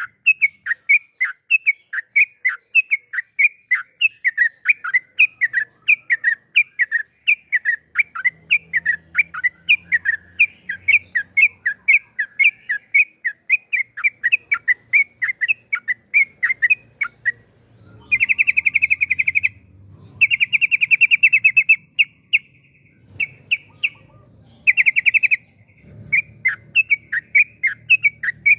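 Yellow-vented bulbul singing a long, fast run of short falling chirps, about three to four a second. Around two-thirds of the way through, the run breaks into several quick buzzy trills, then the chirps resume near the end.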